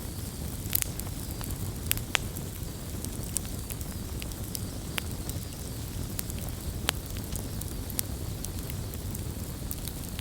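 Wood fire burning, with a steady low rumble under irregular crackles and sharp pops, a few louder snaps scattered through and a loud pop at the very end.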